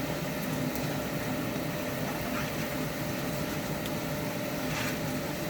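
Oil and spices sizzling in a frying pan on the hob, a steady hiss over a low hum, with a few faint clicks of the spoon as the pan is stirred.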